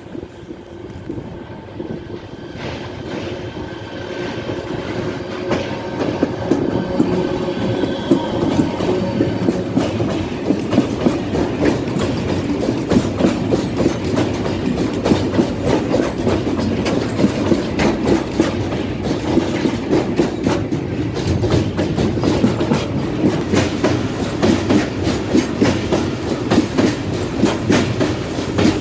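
Freight train led by a TCDD E68000-class electric locomotive coming off a steel truss bridge and passing close by: the rumble grows over the first several seconds, then the wagons roll past with a steady clickety-clack of wheels over the rail joints.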